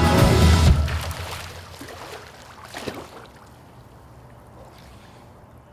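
A song ends about a second in, leaving faint water sounds of a swimming pool: light splashes and lapping, with a few small splashes.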